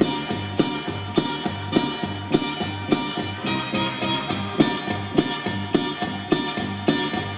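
Rock band instrumental passage: drums keeping a steady beat, about one hit every 0.6 seconds, under bass and sustained guitar chords, with no vocals.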